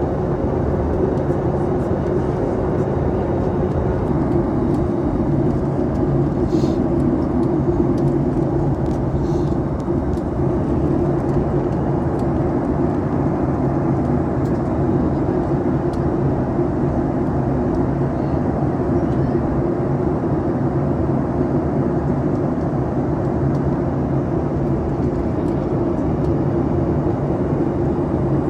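Steady drone inside the passenger cabin of a Boeing 737 MAX, a mix of airflow rush and engine hum with no change in pitch. A couple of faint clicks come about seven and nine seconds in.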